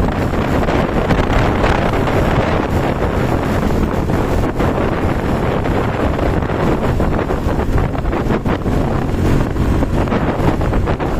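Heavy rain pouring down, with wind buffeting the microphone in a loud, steady rumble.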